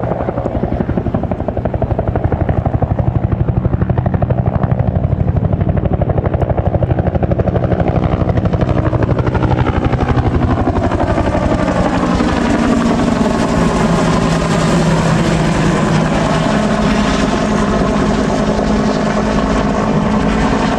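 Bell UH-1 Iroquois (Huey) helicopter flying past, its two-blade main rotor beating rapidly and evenly as it approaches. About halfway through, its tones slide down in pitch as it passes, leaving a steadier engine-and-rotor sound with more hiss as it moves away.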